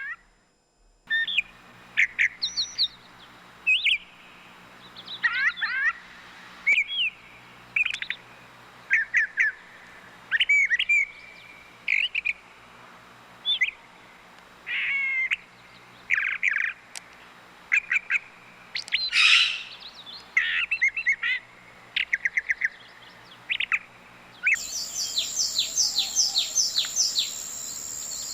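Bird calls: a varied run of short chirps, whistles and quick falling trills, separate and irregular. Near the end it switches abruptly to a denser stretch of rapid repeated chirps.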